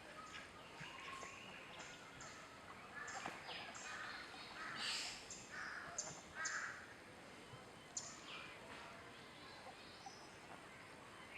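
Faint birds calling: scattered short high chirps, with a few harsh, cawing calls about five to six and a half seconds in.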